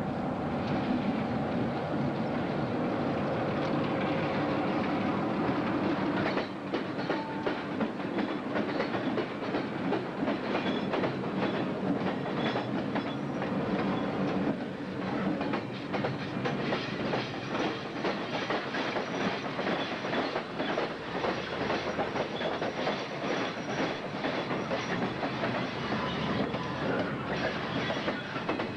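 Diesel locomotive of a Conrail freight train running as it passes. After about six seconds its engine note gives way to the freight cars, including torpedo-shaped bottle cars for molten iron, rolling by with a steady rhythmic clickety-clack of wheels over rail joints.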